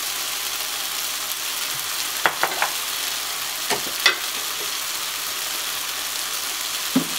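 Onion, bell pepper and tomato sofrito sizzling steadily in a frying pan over medium heat, with a few light clicks a little after two seconds in and again about four seconds in.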